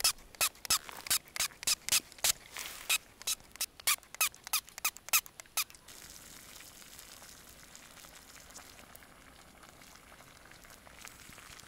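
A knife chopping cucumbers and tomatoes on a cutting board: quick, even cuts about four a second, stopping about six seconds in. A faint steady hiss follows.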